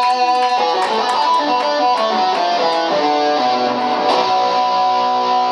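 Guitar playing chords, each change ringing on into the next.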